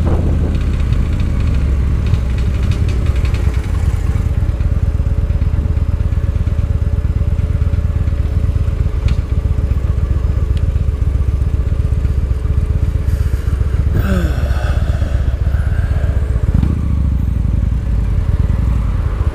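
Victory Highball motorcycle's V-twin engine running steadily while riding at low speed. A brief higher-pitched sliding sound comes in about fourteen seconds in.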